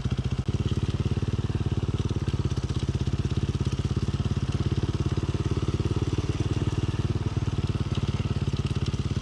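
Dirt bike engine idling steadily with a fast, even putter.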